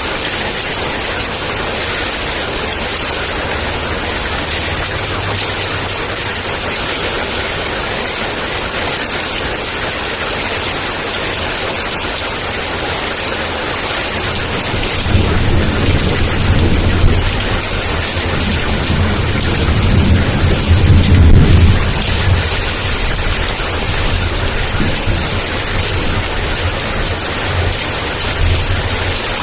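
Heavy rain falling steadily, with a low roll of thunder that swells from about halfway through, peaks a few seconds later and fades away.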